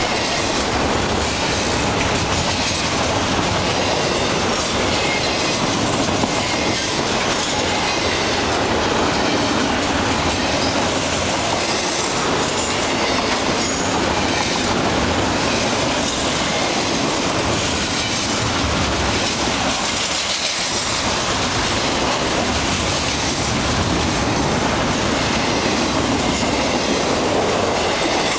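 Cars of a long CN intermodal freight train rolling past close by: a steady, loud rush of steel wheels on the rails that goes on without a break.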